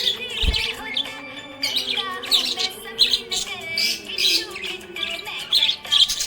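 Budgerigars chirping and twittering in quick, dense high chirps, over a steady background of music.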